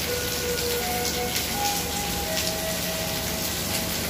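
Heavy rain hissing steadily as a departing passenger train's carriages roll past, with a simple melody of held notes running over it.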